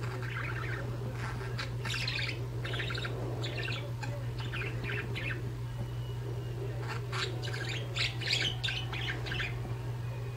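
Pet budgerigars chattering: bunches of quick, high chirps, a short lull about halfway, then another run of chirps, over a steady low hum.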